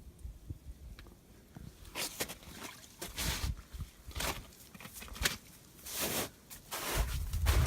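Footsteps on rough outdoor ground, about one step a second, with a low rumble on the microphone near the end.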